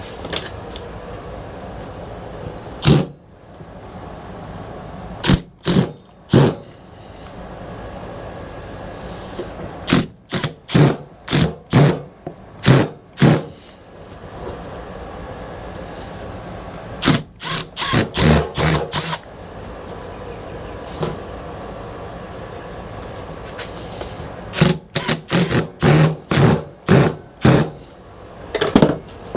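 Power drill-driver run in short trigger bursts, several quick pulses in a row, in five runs with pauses between, backing out screws on a ceiling fan being stripped for scrap.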